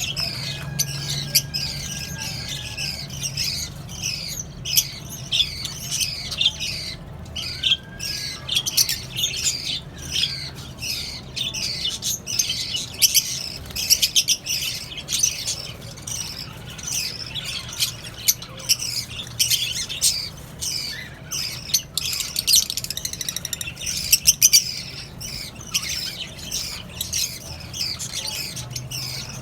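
Mixed aviary flock of small parrots (lovebirds, cockatiels and budgerigars) chattering all at once: a dense, continuous mass of overlapping chirps, tweets and sharp squawks.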